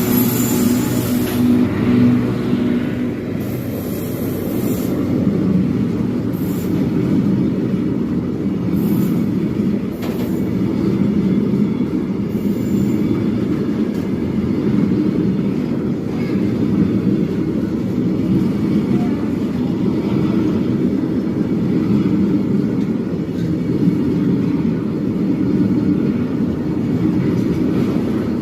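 Freight train of tank wagons rolling along the rails, a steady rumble of wheels on track with no pause.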